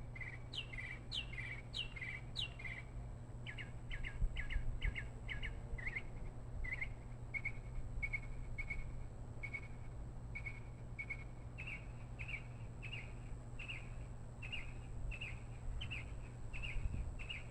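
A bird chirping over and over, short sharp notes about one to two a second, the phrasing changing a few times, over a steady low hum.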